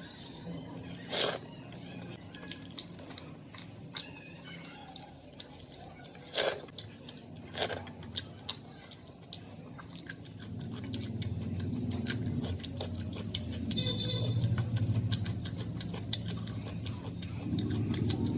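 A person chewing and biting food close to the microphone, with a few sharp crunchy bites in the first half. A low rumble builds up from about halfway through.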